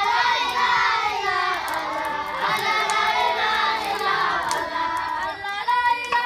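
A group of children singing together in chorus, many voices overlapping, with scattered sharp clicks.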